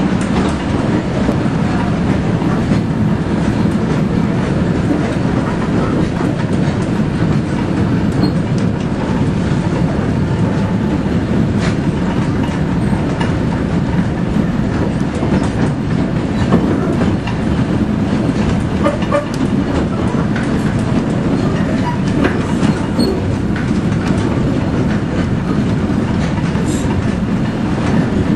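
2 ft 6 in narrow-gauge train running steadily on the line, a constant low running noise of locomotive and wheels on rails with scattered faint clicks.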